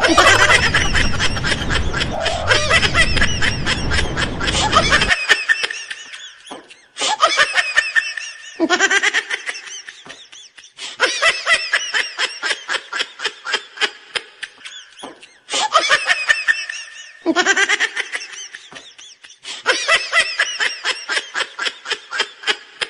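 People laughing in several rounds of quick, rapid ha-ha pulses, each round starting and stopping abruptly, with outdoor rumble under the first few seconds.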